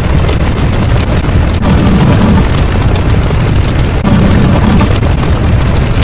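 A loud, continuous rumbling sound effect, heavy in the low end, swelling about every two seconds.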